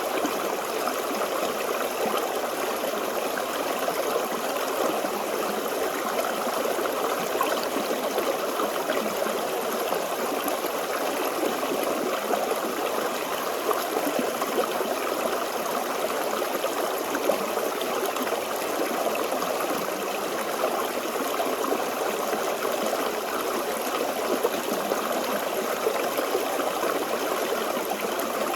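Forest stream flowing steadily over rocks, a continuous babbling and trickling of water.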